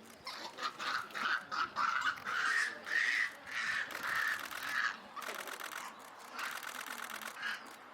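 Harsh animal calls in a rapid run: short cries a few times a second at first, then longer rasping calls, fading near the end.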